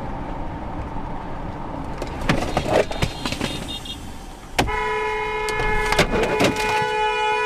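Car driving with road and engine noise and a few knocks, then about four and a half seconds in a car horn sounds and is held down steadily to the end, blown at another driver in the way.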